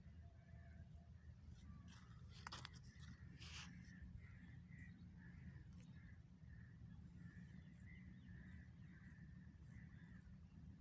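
Faint bird calls repeating throughout over a steady low background rumble, with a couple of brief sharp sounds about two and a half and three and a half seconds in.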